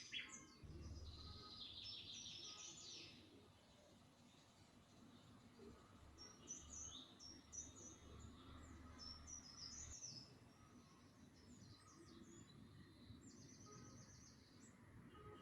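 Faint birdsong: a short trill about a second in, a run of quick chirps in the middle, and another trill near the end, over a low background rumble.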